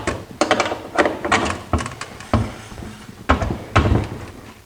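Irregular clicks and knocks, about a dozen over a few seconds, some with a dull thump, from hands working on a suspended plywood light fixture and its hardware.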